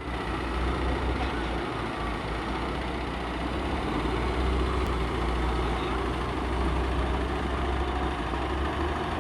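Heavy truck engine running steadily, its level even throughout.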